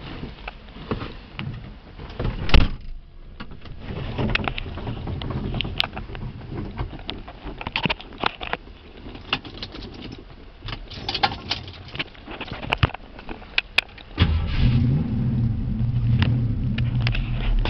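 Scattered clicks and knocks with one loud thump about two and a half seconds in, then about fourteen seconds in the 1968 Mustang's engine starts and settles into a steady idle.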